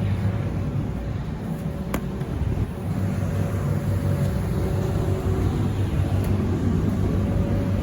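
Space heater running with a steady low drone and a faint constant tone; a single click about two seconds in.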